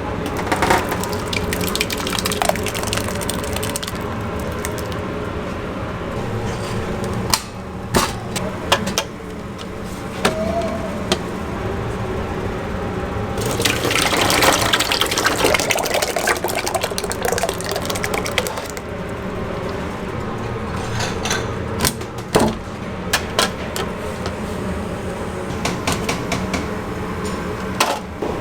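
Kitchen work sounds: water or liquid running and splashing, loudest for several seconds around the middle, amid scattered knocks and clatter.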